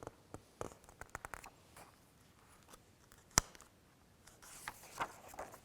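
Quiet handling of a picture book: small clicks and soft paper rustling as pages are handled, with one sharp tap about three and a half seconds in.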